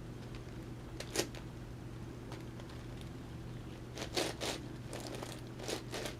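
Plastic layers of an 11x11x11 Rubik's cube being turned by hand: faint clicks and clacks, one about a second in and several from about four to six seconds in, over a steady low hum.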